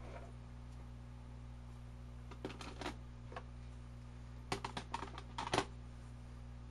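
Small hard plastic clicks and clacks from handling capsule-toy Gaia Memories: a few about two and a half seconds in, then a quick run of clicks around four and a half to five and a half seconds in.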